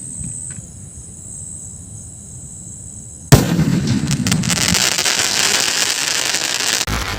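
A 5-inch skyshot aerial firework shell goes off about three seconds in with a sudden sharp bang. Dense crackling and hiss follow for a few seconds.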